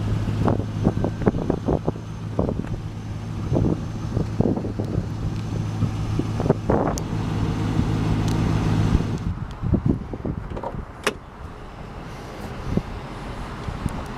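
A car engine idling, a steady low hum that stops about nine seconds in, with scattered knocks and clicks throughout.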